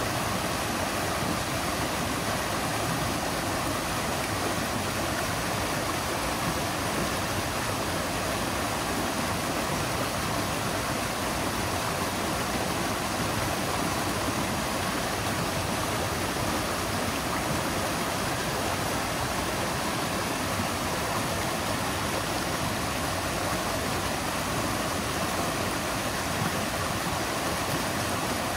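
River water flowing over rocks: a steady, full rushing of water with no change in level.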